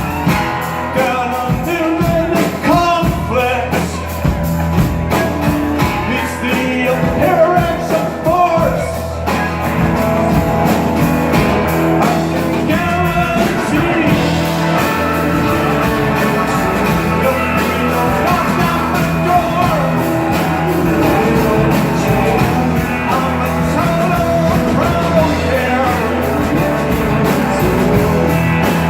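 Live rock band playing with a singer, electric guitar, bass and drums, continuously and at full volume.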